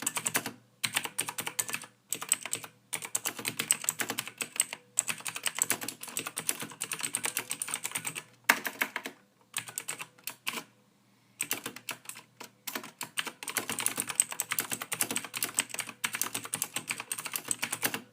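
Typing on a computer keyboard: rapid key clicks in runs, broken every few seconds by short pauses.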